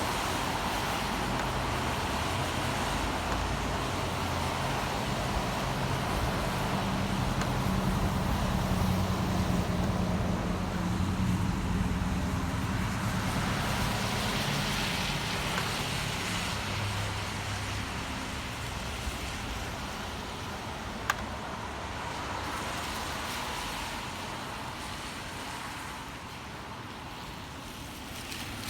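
City road traffic on a rainy street: a steady wash of passing vehicles, with a heavier vehicle's low engine swelling and fading through the middle. A single sharp click comes about three quarters of the way through.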